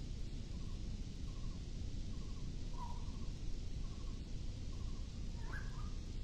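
A bird calling, a string of short chirps repeated about once a second, then a louder, more complex call near the end, over a steady low background rumble.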